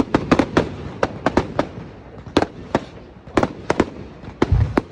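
Fireworks going off: a rapid, irregular string of sharp cracks and bangs, with a deeper boom near the end.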